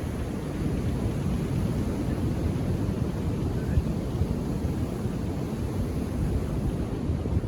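Indian Ocean waves washing onto the beach, a steady low-pitched rush of surf, with wind buffeting the microphone.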